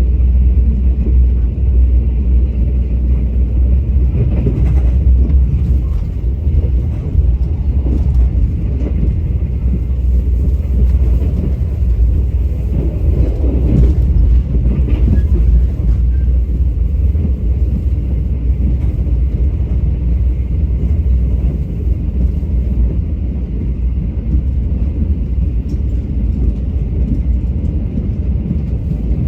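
Train running along the rails: a steady, deep rumble with faint clicks and rattles over it.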